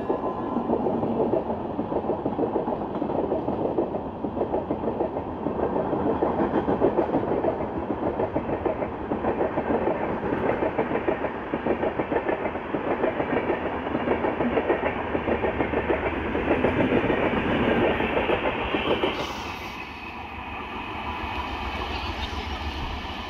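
Express train's LHB passenger coaches running through at speed, a loud rumble with rapid clattering of wheels over the rails. About 19 seconds in the clatter stops and a quieter, steady rumble takes over.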